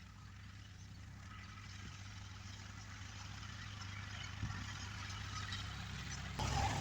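An engine running steadily at a low pitch, growing gradually louder, then louder still all at once near the end.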